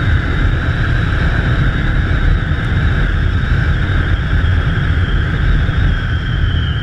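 A motorcycle riding at steady speed: its engine runs evenly under a heavy rumble of wind on the rider's camera microphone.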